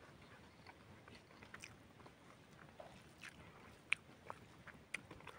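Faint chewing and wet mouth clicks from a person eating rice and chicken by hand, with a sharper click about four seconds in.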